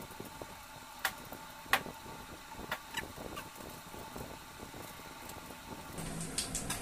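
A person eating biryani by hand: several short, sharp mouth clicks and smacks while chewing, the loudest about a second and a half in, with another cluster near the end. A steady mechanical hum runs underneath.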